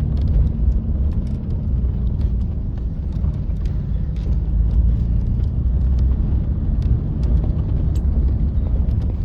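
Steady low rumble of a car on the move, the road and engine noise of riding in it, with scattered small clicks and rattles.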